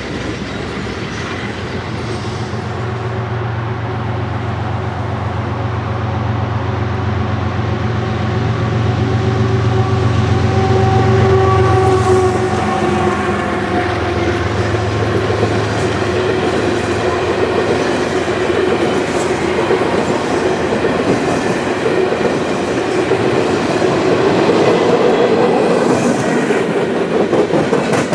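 Freight train passing: diesel locomotives running with a steady low engine note for about the first half, then the cars rolling by with wheel clatter on the rails.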